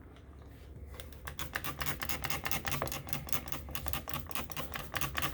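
Windex spray bottle being pumped quickly: a fast, even run of short spritzes that starts about a second in and keeps going.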